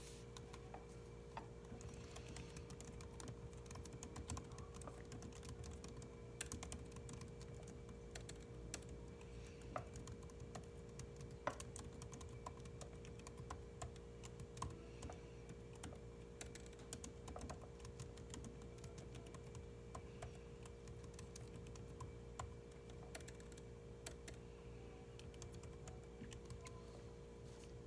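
Typing on a computer keyboard: a steady stream of irregular key clicks, over a constant low hum.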